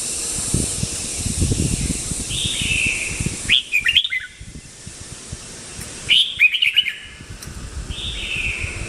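Red-whiskered bulbul singing short, quick, bubbly phrases of a few notes each, four in all with a gap in the middle, over a steady hiss and low rumble.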